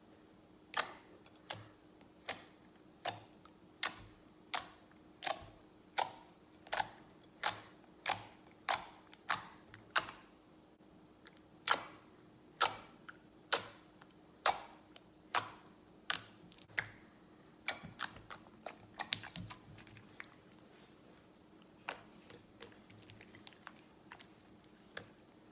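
Slime popping with sharp clicks, evenly spaced about every three-quarters of a second for the first two-thirds, then fainter, scattered clicks.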